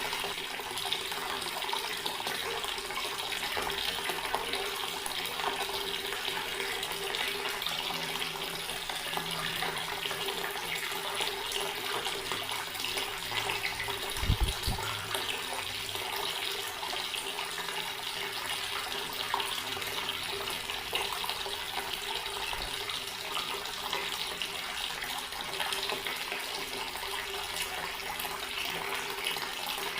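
Water tap running steadily, its stream splashing into a basin, with one short low thump about halfway through.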